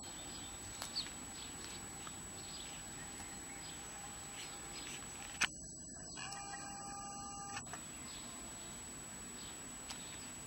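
Outdoor garden background with small birds chirping now and then, over a faint steady high whine. A few sharp clicks stand out, the loudest about halfway through.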